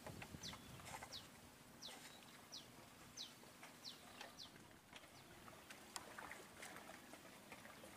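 Faint bird calls: a short, high, falling note repeated about every two-thirds of a second through the first half, followed by a few faint clicks near the end.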